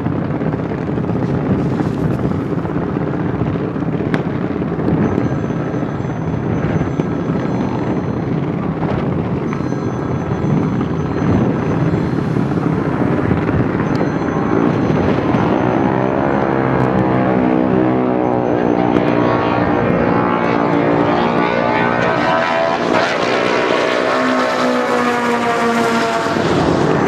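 1956 Ford Thunderbird's 428 stroker V8 running loud, steady at first; from about halfway its pitch rises and falls repeatedly as it revs, climbing highest near the end.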